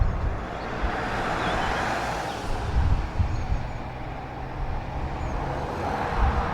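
A vehicle passing, its noise swelling and easing, over a gusty low rumble of wind on the microphone, with faint bird chirps.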